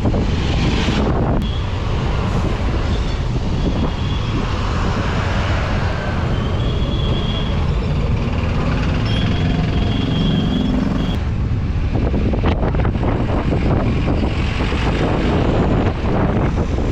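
A vehicle running on the road, heard under heavy wind buffeting on the microphone. The sound changes abruptly about a second and a half in and again about eleven seconds in.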